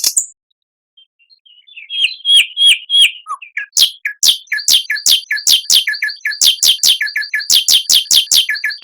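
Recorded songbird singing: after a brief silence, a few rising whistled notes, then a fast run of repeated notes that each sweep down in pitch, about three or four a second.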